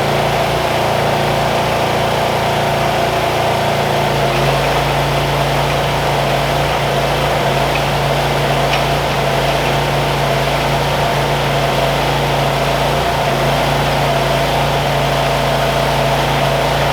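An engine running steadily at idle, its low note shifting slightly about four seconds in.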